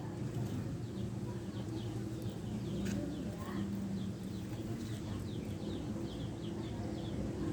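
Small caged birds chirping: many short, quick high chirps repeating, over a steady low background hum.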